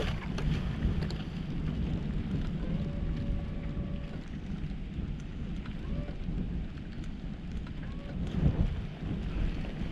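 Wind buffeting the microphone: a steady low rumble that swells and eases with the gusts.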